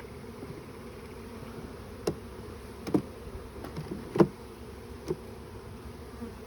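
Honeybee swarm buzzing steadily, with about four sharp knocks of the wooden hive box and frames being handled, the loudest a little past halfway.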